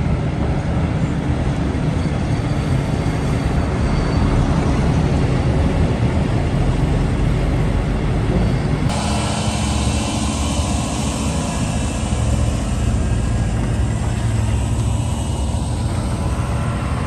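Heavy diesel machinery running steadily, a dense continuous rumble. The sound changes abruptly about nine seconds in.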